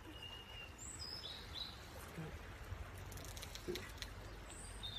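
Wild birds calling now and then with short whistled notes, over faint steady outdoor background noise.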